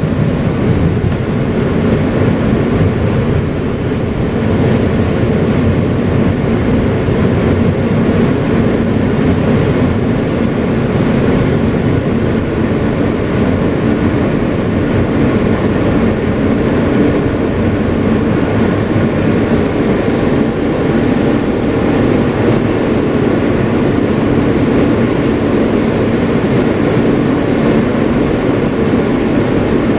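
Kawasaki R160B subway car with Siemens propulsion running steadily along the track, heard from inside the car as a loud, continuous rumble with a steady hum from the running gear and motors.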